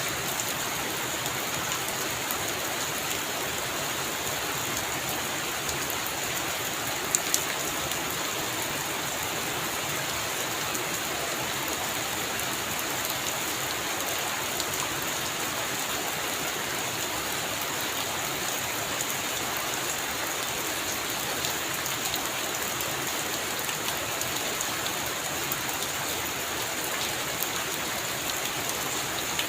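Heavy rain falling steadily on a roof, an even hiss of drops, with a couple of sharp drop ticks about seven seconds in.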